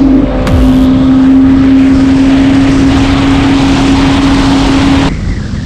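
Supercharged Yamaha FX SVHO jet ski engine held at high revs, a steady high engine note over rushing water and wind, dropping off abruptly about five seconds in.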